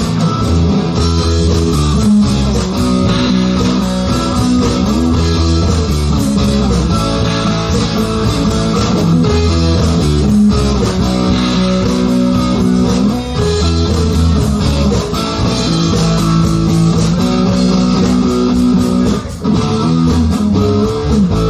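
Live rock band playing an instrumental passage between sung verses: electric guitar and bass guitar, with no vocals.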